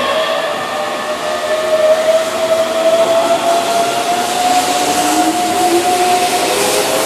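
Keihan electric express train pulling away, its traction motors giving a whine that climbs slowly in pitch as it gathers speed, with a second, lower whine rising in about four seconds in.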